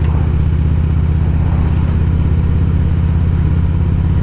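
Harley-Davidson Road King's V-twin engine running at a steady speed while riding, with wind rush over it.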